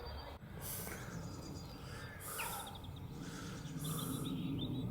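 Birds chirping and trilling over a steady low outdoor background.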